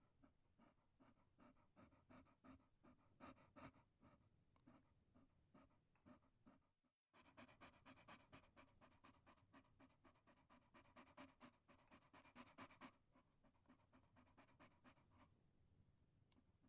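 A Chihuahua panting faintly in quick, even breaths. There is a short break about seven seconds in, and the panting fades out near the end.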